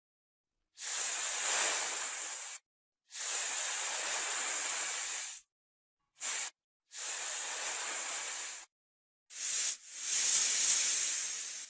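Snake hissing: six separate hisses, most lasting one to two seconds and one very short, each breaking off into silence.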